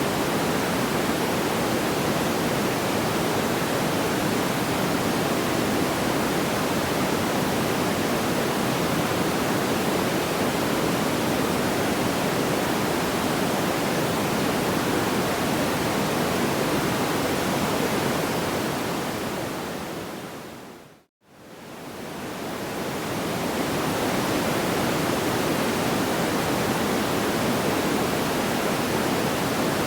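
Steady, even rushing noise like pink noise, with no crackling heard. It fades out to silence about two-thirds of the way through and fades back in a few seconds later: the seam where the looped track restarts.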